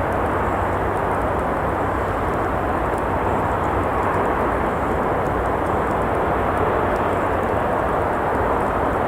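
Steady rumble and hiss of traffic on a nearby road, an even wash of noise with no single vehicle standing out, with faint scattered clicks above it.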